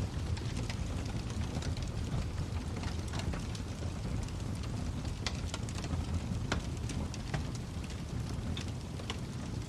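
Wood fire in a fireplace crackling, with irregular sharp pops and snaps over a steady low rumble of burning logs.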